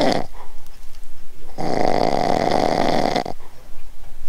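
Loud, harsh snoring: a rasping breath of under two seconds, repeating about every three and a half seconds.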